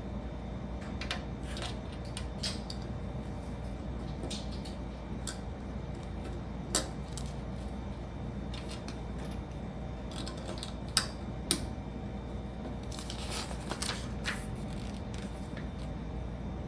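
Small plastic Lego pieces clicking and tapping as they are handled and pressed together: scattered single clicks, with a brief flurry of rattling clicks near the end, over a steady low hum.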